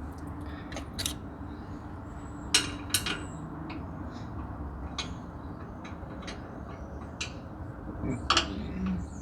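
Metal hand tools clinking and knocking on engine parts while a stuck diesel fuel injector is worked loose: scattered light clicks, with sharper clanks about two and a half and three seconds in and again near the end, over a low steady hum.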